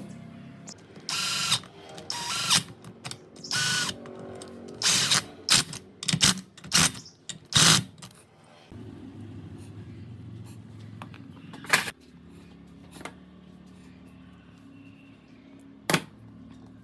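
Workshop tool noise: a run of short, loud bursts, some ringing, over the first half. Then a low steady hum with two sharp clicks.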